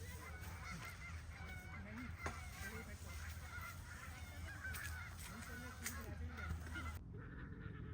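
A flock of Canada geese honking, many calls overlapping. The honking cuts off suddenly about seven seconds in.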